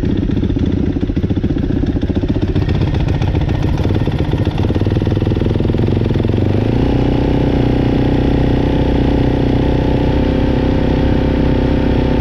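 Four-stroke dirt bike engines idling cold. The note is uneven at first, and about halfway through a steadier, louder engine note sets in and holds.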